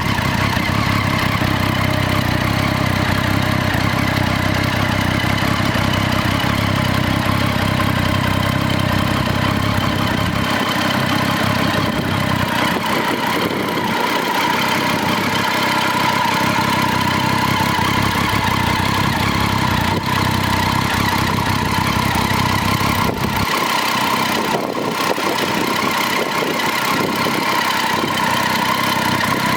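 Triumph Street Triple 675's three-cylinder engine running steadily at idle.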